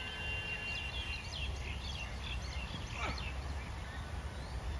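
Small birds chirping repeatedly over a low, steady rumble.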